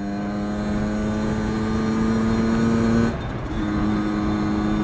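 2003 Aprilia RX 50's 50cc two-stroke Minarelli AM6 engine running under way at high, steady revs, its pitch creeping up slightly. The note breaks off for about half a second after three seconds, then picks up again at steady revs.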